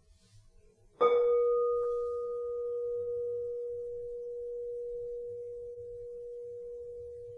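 Crystal singing bowl struck once about a second in, then ringing on one steady tone that slowly fades. A fainter, higher overtone dies away within a few seconds.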